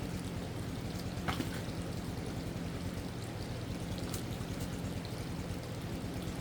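Steady flowing water, with a low steady hum underneath and a few faint clicks.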